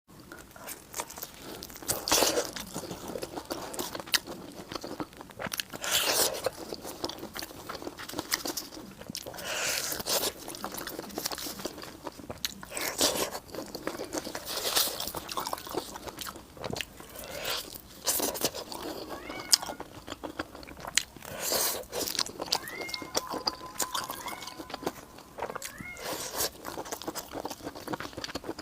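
Close-miked eating: bites, crunching and chewing of Chinese food, with a louder bite or slurp every couple of seconds.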